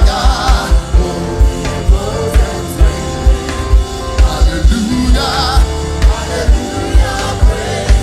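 Live gospel worship music: a band with a strong kick drum beat, about two hits a second, under sung vocals.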